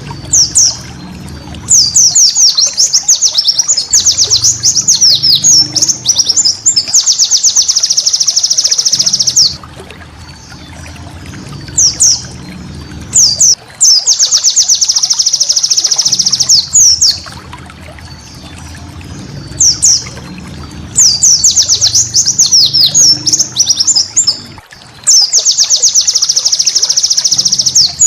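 White-eye (pleci) singing in long bouts of rapid, high, chattering trills, four or five bouts with short pauses between them, over a faint steady low background noise.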